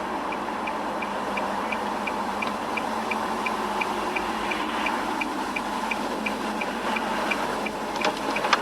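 A car's turn-signal indicator ticking steadily, about three ticks a second, over steady engine and road noise inside the cabin. A few sharper clicks come near the end.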